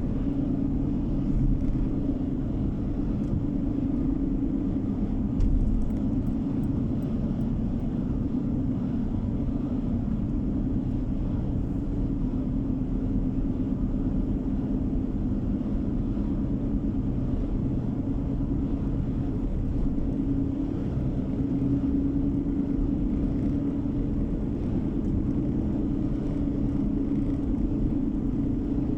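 A car driving at a steady speed: continuous road and engine noise with a low, even drone. There is a brief low thump about five and a half seconds in.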